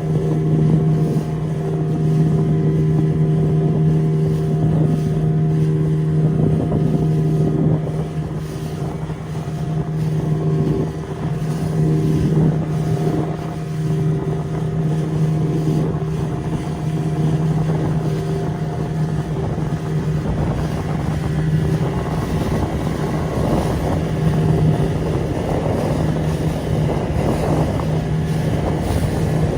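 Motorboat engine running at a steady pitch while underway, with rushing wind and water noise that grows stronger in the last third.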